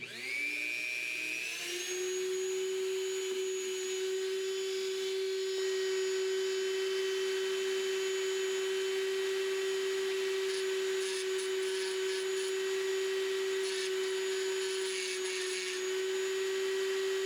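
Dremel rotary tool with an end mill bit spinning up with a rising whine, then running at a steady high speed. In the second half come short spells of scratchy noise as the bit cuts into the die-cast metal tabs holding the wheels.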